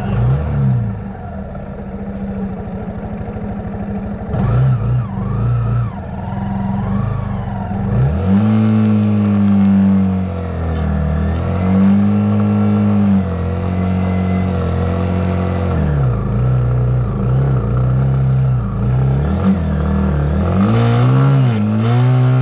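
Dirt bike's single-cylinder four-stroke engine under way, its revs rising and falling again and again with the throttle. It gets louder about eight seconds in.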